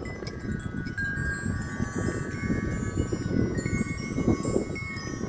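Wind chimes ringing in a strong gust of wind, many overlapping sustained tones struck again and again. Wind rumbles and buffets the microphone underneath.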